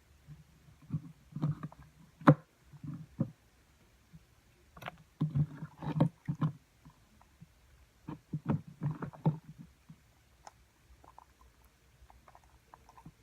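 Sticky fluffy slime being squeezed and stretched by hand, squelching in irregular bursts with small clicks and pops; from about ten seconds in only faint clicks remain.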